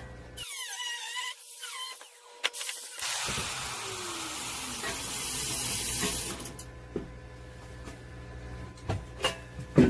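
Power tool working steel: a loud hissing cut from about three seconds in to about six and a half seconds, with short squeals before it and a few knocks after.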